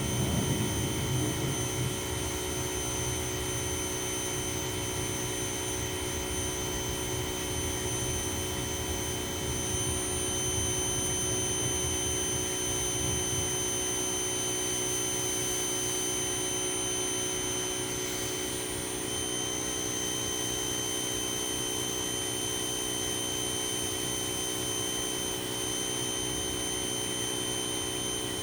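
Ryobi 2000 psi pressure washer running steadily: a constant hum and high whine over a hiss, with a heavier low rumble in the first couple of seconds.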